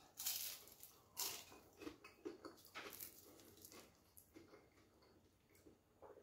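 A person chewing and biting through a mouthful of crispy, flaky puff pastry from a steak bake: faint, irregular crunches, strongest in the first second and dying away after about four seconds.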